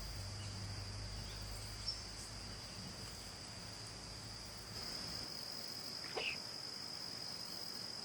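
Insects, crickets or cicadas, chirring steadily as one constant high-pitched trill, with a brief faint sound about six seconds in.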